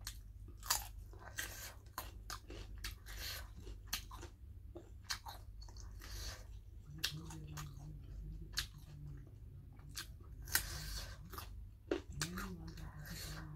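Close-miked mukbang chewing: a person crunching raw carrot sticks and chewing a mouthful of food, with many short crunches and wet mouth sounds. There are short low hums from the eater about seven seconds in and again near the end.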